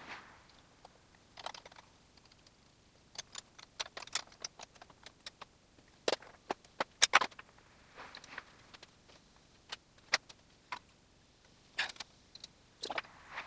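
Irregular sharp metallic clicks and clinks, in loose clusters a few seconds apart, with a couple of short scrapes: hand tools and small car parts being handled and set down while a rear hub is stripped.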